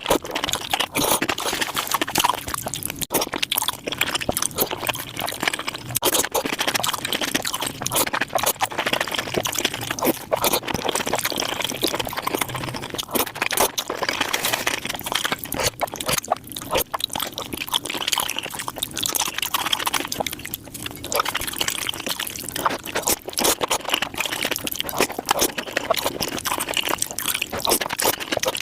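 Close-miked wet eating sounds sped up five times: a continuous rapid patter of chewing, smacking and slurping clicks.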